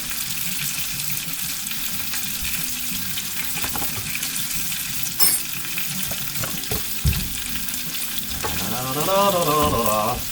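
Chicken frying in a pan, a steady sizzle, with a couple of sharp knocks in the middle.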